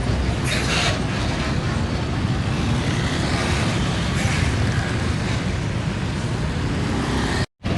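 Steady road traffic noise: engines and tyres of heavy vehicles passing close by, cutting out briefly near the end.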